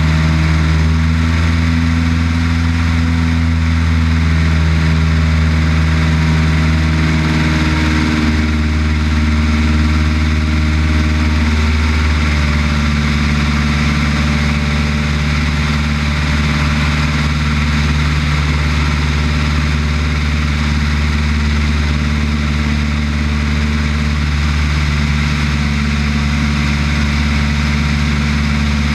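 Piper Cub light aircraft's piston engine and propeller running steadily, its pitch shifting slightly about a third of the way through.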